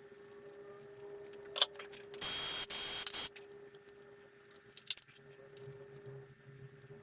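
Two hissing blasts, about a second in all, of a spray or air jet, amid small metallic clicks and knocks of engine parts being handled, over a steady low hum.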